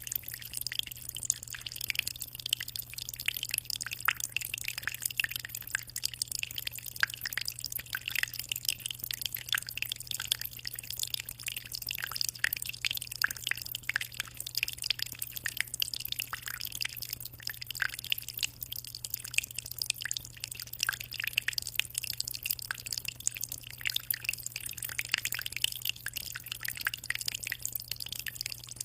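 Aquarium water trickling and splashing in a steady stream of small drips and bubbles, over a constant low hum.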